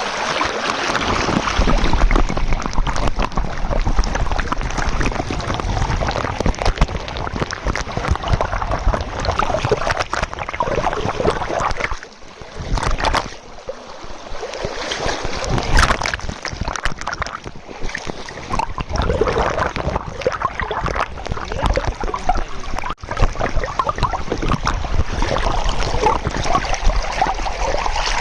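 Water splashing and gurgling close to the microphone, steady throughout with a brief lull about halfway.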